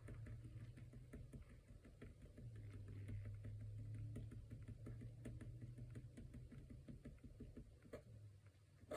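Faint, irregular light tapping of a watercolour paintbrush dabbing and stippling paint onto paper, over a low hum. A slightly sharper click near the end.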